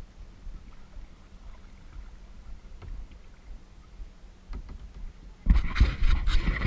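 Kayak on the water: a quiet low rumble with a few faint knocks, then about five and a half seconds in a loud, close burst of splashing and rumbling noise lasting a couple of seconds.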